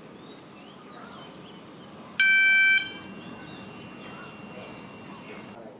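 A single electronic beep from a Thai railway station's blue-lamp signal indicator, one steady pitched tone lasting about half a second, about two seconds in. Birds chirp softly throughout.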